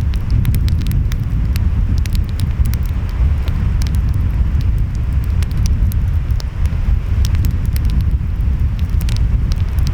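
Wood fire crackling, with frequent sharp pops, over a steady low rumble of waves and wind.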